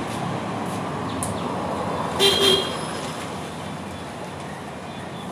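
Steady background noise, with two quick short honks just over two seconds in.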